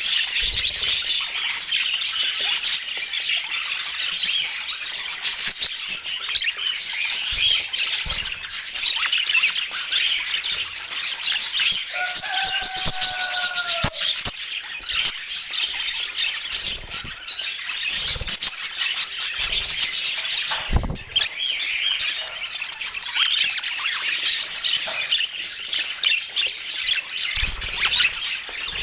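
A flock of budgerigars chattering and chirping continuously, with a lower, longer call of about two seconds near the middle and a few soft thumps.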